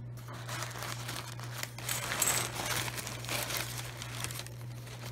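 Tissue paper rustling and crinkling as items are unwrapped from a box, with many small crackles and clicks.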